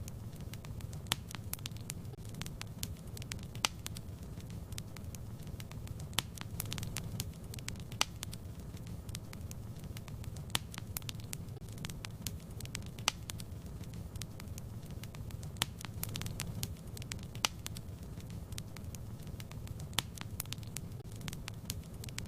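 Wood fire burning in a fireplace: a steady low rumble of flames with frequent sharp, irregular pops and crackles.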